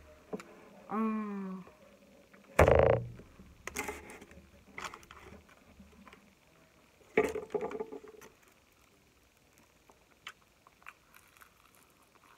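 Close-up eating and food-handling sounds: a short hummed "mm" about a second in, two loud bumps against the microphone or table, and scattered small clicks and rustles.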